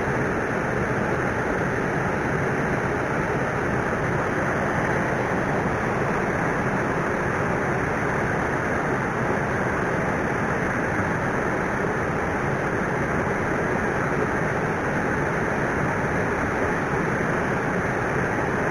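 Steady rush of flowing river water, even and unbroken throughout.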